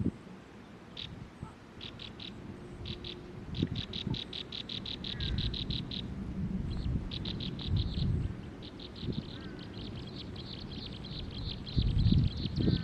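Nestling birds chirping, most likely begging for food: short high cheeps, scattered at first, then in fast runs of about eight a second. Low bumps and rustling underneath.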